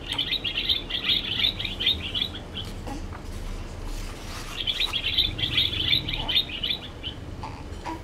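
Small bird twittering in two bouts of rapid, high chirps, the first lasting about three seconds and the second starting a little past the middle.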